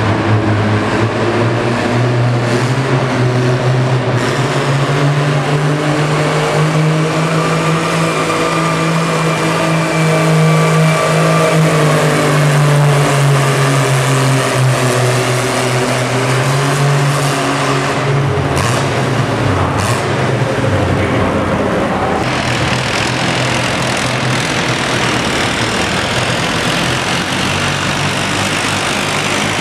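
Antique pulling tractor's engine running hard under load, its note slowly rising and holding steady. About three-quarters of the way through, the note drops and breaks up, leaving a rougher, noisier running sound.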